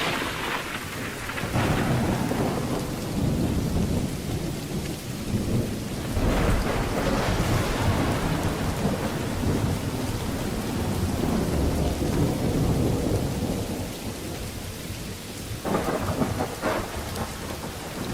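Steady rain falling during a thunderstorm, with thunder rumbling underneath. The thunder swells several times, with sharper onsets about a second and a half in, about six seconds in and near the end.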